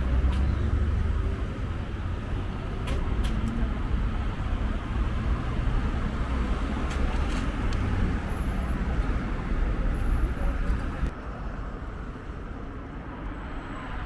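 Urban street traffic: a steady rumble of passing cars and heavier vehicles, loudest in the first couple of seconds, with a few faint clicks.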